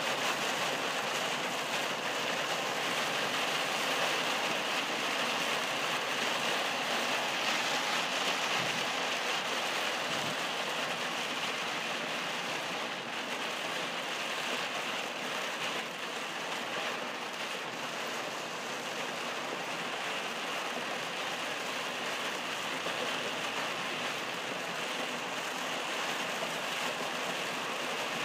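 Heavy rain beating on a moving car's windshield and roof, heard from inside the car as a steady hiss, mixed with the noise of tyres on the flooded road.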